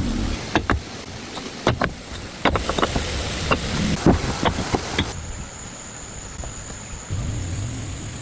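Irregular sharp knocks and clicks over a low rumble. About five seconds in these give way to a quieter stretch with a steady, high-pitched insect drone.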